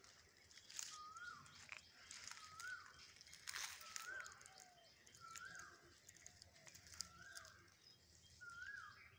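A bird calling: one short whistled note that rises and then falls, repeated about six times, about every second and a half, with a few faint crackles in between.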